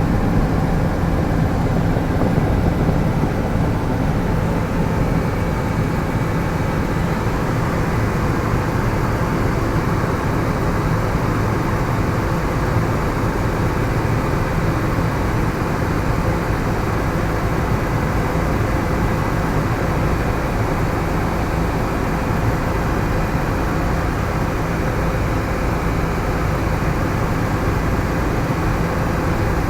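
Helicopter engine and rotor noise: a loud, steady drone with a low hum, unchanging in level.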